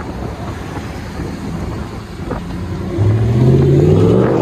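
2016 Ram 1500's 5.7-litre Hemi V8 running through a Flowmaster Super 44 muffler with the resonators still on, then revved about three seconds in, the exhaust note jumping in loudness and rising in pitch.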